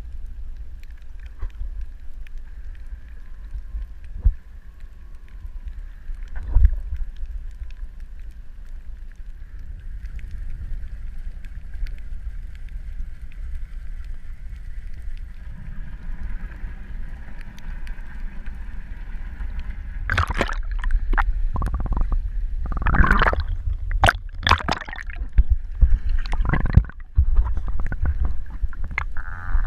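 Underwater sound through a camera housing: a steady low rumble with a faint thin tone, a couple of single knocks early on, then from about twenty seconds in several loud irregular bursts of bubbling and gurgling.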